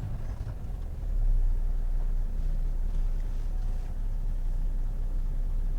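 Tractor-trailer's diesel engine running, heard as a low rumble from inside the cab, growing louder about a second in.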